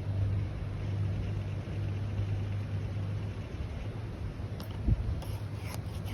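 A steady low mechanical hum, with a single thump about five seconds in.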